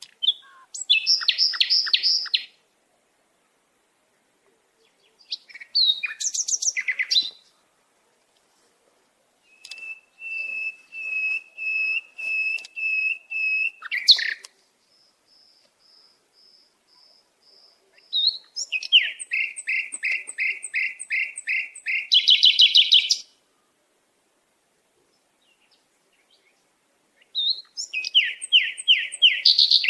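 A songbird singing in separate phrases of rapid repeated high notes, each phrase a few seconds long with full silence between them.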